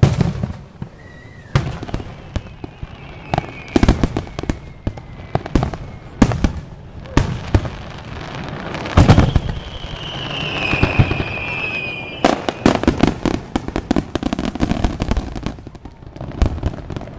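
Fireworks display: repeated loud bangs of shells bursting overhead, with a falling whistle about ten seconds in and a dense run of rapid crackling toward the end.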